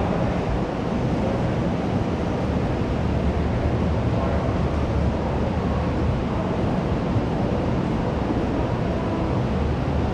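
Steady din of a busy school canteen: many overlapping voices blurred into indistinct babble.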